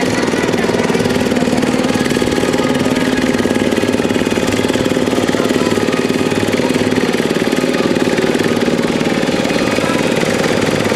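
Massey Ferguson pulling tractor's engine running hard under load during a tractor pull, loud and holding a steady pitch.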